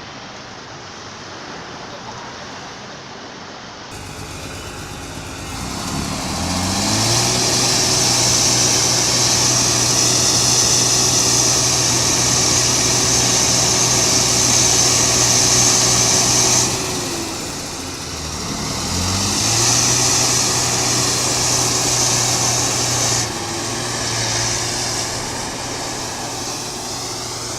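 Heavy vehicle engine revved up and held at high revs for about ten seconds. It drops back, then revs up again and holds.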